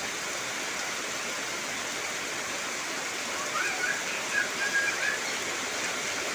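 Heavy rain falling steadily on trees, with a few short high whistled notes a little past the middle.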